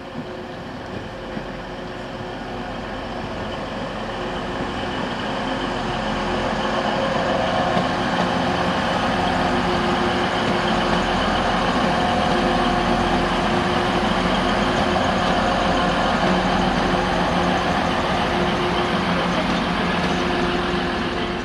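Diesel train engine running with a steady hum. It grows louder over the first several seconds, then holds level.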